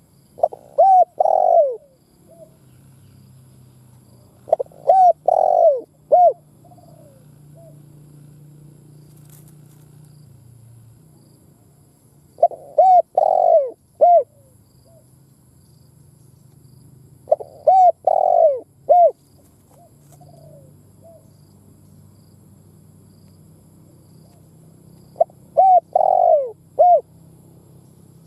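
Spotted dove cooing: five phrases of a few mellow notes each, repeated every five to eight seconds, over a faint low hum.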